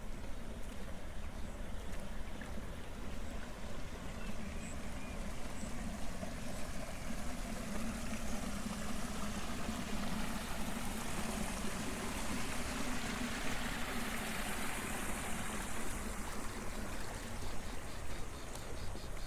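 Water running steadily in an irrigation channel. It grows louder in the middle and then eases.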